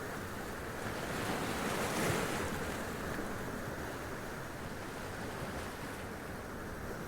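Sea waves running up over rocks: a continuous wash of surf, with one wave surging and splashing about two seconds in.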